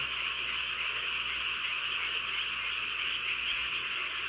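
A dense chorus of many frogs calling at once, a steady unbroken din with no single call standing out.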